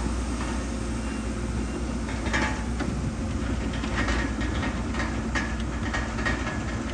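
A bulldozer's diesel engine running steadily under load, with sharp metallic clanks from its steel tracks and the rock it pushes. The clanks begin about two seconds in and come several times in the second half.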